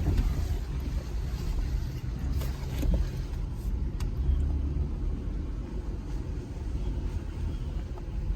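Jeep Gladiator Rubicon's 3.6 Pentastar V6 running, a steady low rumble heard from inside the cab, with a few short knocks and rattles from the truck on the trail.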